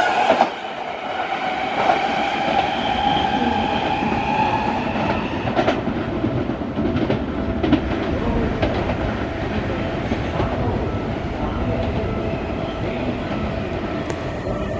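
Seibu Railway electric commuter train running through the station. Its motor whine rises slightly and fades over the first few seconds, giving way to a steady rumble of wheels on rail with scattered clacks over the rail joints.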